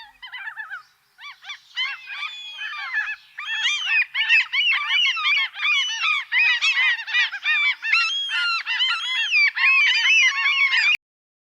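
A flock of flamingos calling, many overlapping honks that start sparse and build into a dense, continuous chorus, cutting off abruptly near the end.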